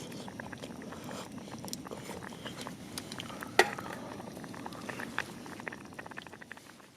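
Wood campfire crackling, with scattered small pops and one loud pop about halfway through, fading out near the end.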